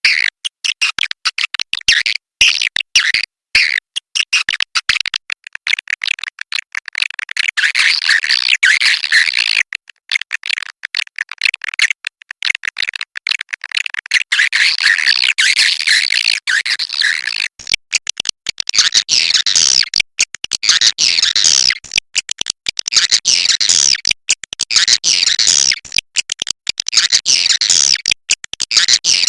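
Cave swiftlets calling: a dense, unbroken chatter of rapid clicks and chirps.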